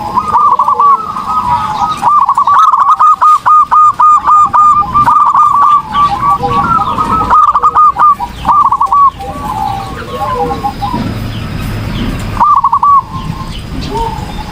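Zebra dove (perkutut) cooing in full song: a long run of quick, short repeated notes, with a brief burst again near the end.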